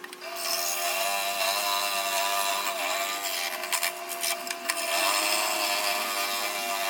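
Scroll saw running and cutting wood, its motor whine steady but wavering slightly in pitch as the load on the blade changes.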